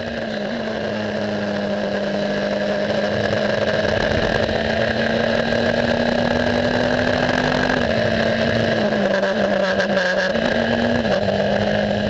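Racing car engine running at steady, near-constant revs, its pitch stepping slightly up and down a few times.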